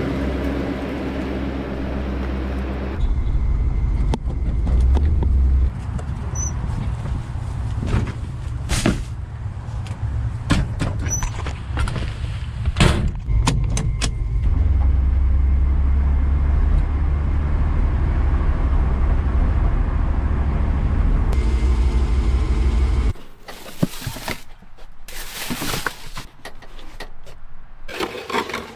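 A steady low mechanical rumble from a running motor, with scattered sharp knocks and clanks, cutting off abruptly about 23 seconds in; light metallic clicks and clinks follow.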